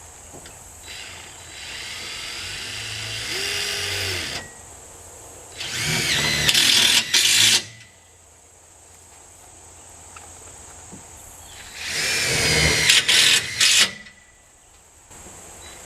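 Power drill driving screws into plywood sheeting, run in three bursts. Each burst has a motor pitch that rises as it spins up, and the second and third are the loudest.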